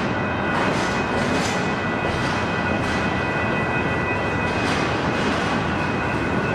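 Double-stack intermodal train of loaded well cars rolling past: a steady rumble and rattle of wheels on rail, with a few irregular clanks and faint steady high-pitched tones over it.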